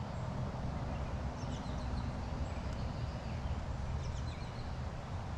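Steady low rush of a flowing stream, with a few faint, high bird chirps about a second and a half in and again around four seconds in.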